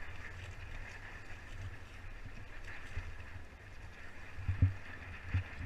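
Water washing along the hull of a Hobie Tandem Island pedal kayak under way, over a steady low rumble, with two dull knocks a little under a second apart near the end.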